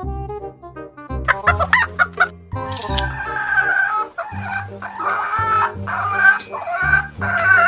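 Chickens clucking in short, repeated calls over background music with a steady bass line.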